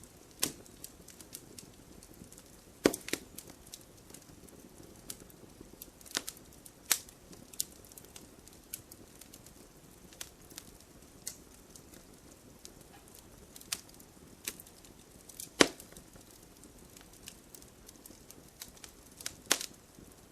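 Wood fire burning: logs crackling with irregular sharp pops over a faint steady hiss, the loudest pops about three seconds in, past the middle, and near the end.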